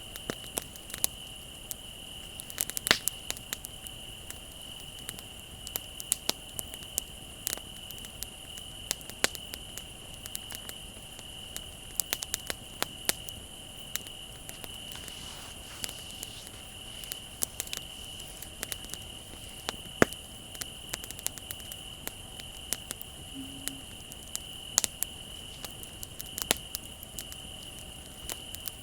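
Campfire burning with irregular sharp crackles and pops, over the steady high trilling of crickets.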